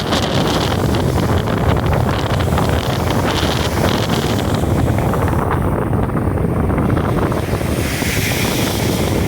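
Caribbean surf breaking and washing on the beach, with strong wind buffeting the phone's microphone.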